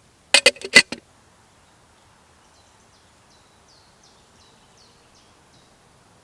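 A quick clatter of about five sharp knocks in the first second, then a small bird calling faintly with a run of short, high, falling notes, about two or three a second.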